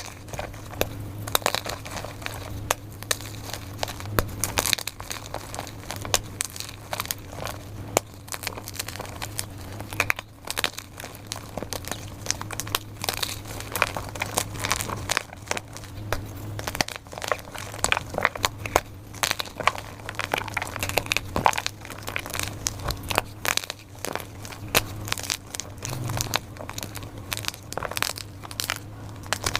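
Dyed gym chalk being crushed and crumbled, a dense, irregular run of crunches and crackles.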